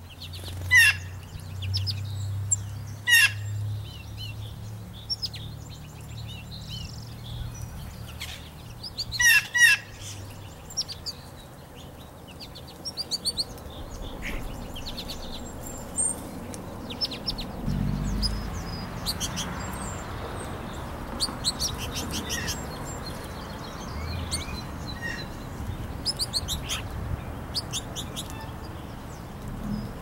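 Wild birds calling: loud harsh calls about a second in, at about three seconds and twice around nine seconds, with many small high chirps throughout and a low rumble underneath.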